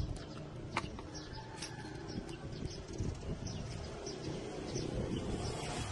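Birds chirping in short, scattered calls over a steady low background rumble, with a few sharp clicks.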